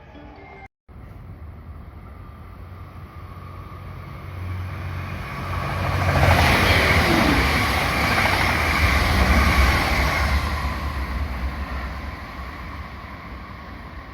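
Electric train passing through the station: low rumble and rushing wheel-on-rail noise. It builds to a peak about six seconds in, holds for several seconds, then fades away.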